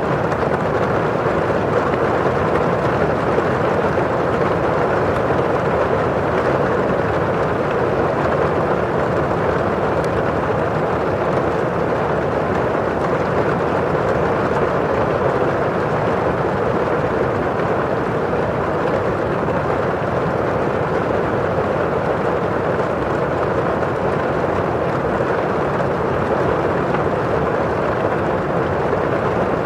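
Steady rain falling on a window pane and outside: an even, unbroken hiss with no single drops standing out.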